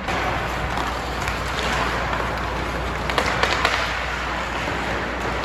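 Ice hockey rink ambience during play: a steady wash of skating and crowd noise, with a quick cluster of sharp clacks of sticks and puck a little past the middle.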